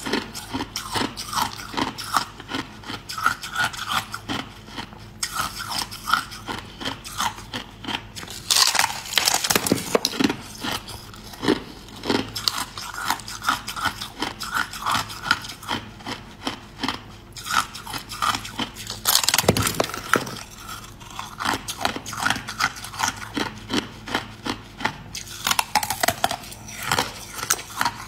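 Close-up chewing and crunching of a thin, brittle translucent yellow sheet, with dense crackling and scraping as pieces are broken off and chewed. A few louder crunches stand out.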